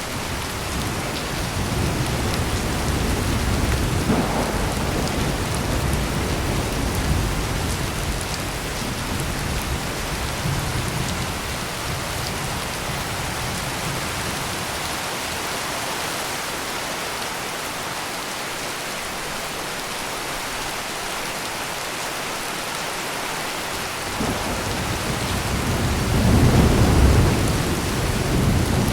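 Heavy rain pouring steadily, with low rolling thunder that rumbles through the first twelve seconds, fades, then swells again about 24 seconds in and peaks near the end.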